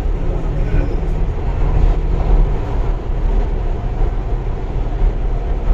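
Cabin of an MTR East Rail Line R-Train electric multiple unit running between stations: a loud, steady rumble of wheels and running gear, with a faint low hum during the first couple of seconds.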